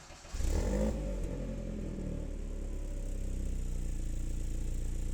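BMW E36 compact's four-cylinder engine starting: it catches about half a second in with a brief flare of revs, then settles into a steady idle.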